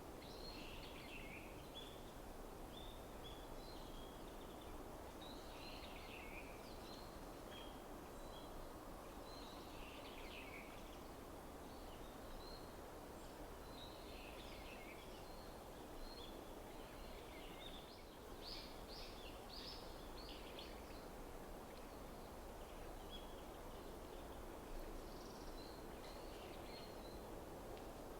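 Several small songbirds chirping and calling in short, scattered phrases, over a steady low background rumble.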